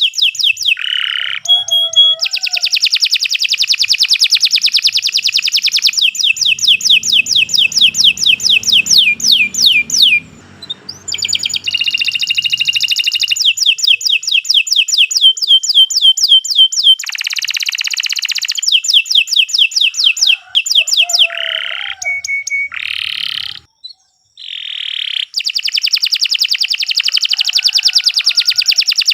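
Domestic canary singing a long, continuous song of rapid trills, each a fast run of repeated high notes. The song breaks off briefly about ten seconds in and again near 24 seconds, then picks up again.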